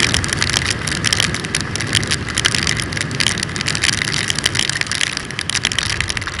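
Motorcycle riding at speed in heavy rain: a dense hiss of wind and spray over a steady low rumble, with rapid sharp ticks of raindrops striking close to the microphone.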